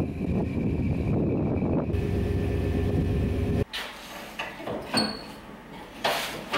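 Chevrolet S-10 Blazer's engine running steadily with a low rumble as it tows the car on a strap. It stops abruptly, and quieter rubbing and scuffing of cardboard underfoot follows, with a knock and then a short scraping slide as the cardboard slips.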